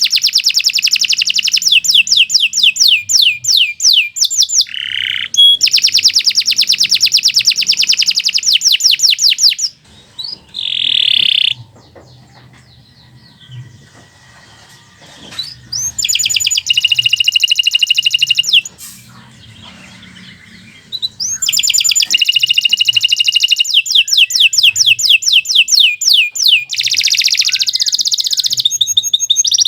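Canary singing long, fast trills of rapidly repeated notes, in several sustained phrases broken by a pause of several seconds about a third of the way in and a shorter pause about two-thirds of the way in.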